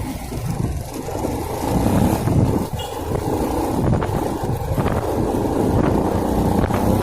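A motor vehicle running on the road, heard as a continuous rush of engine and road noise that swells about two seconds in and stays up.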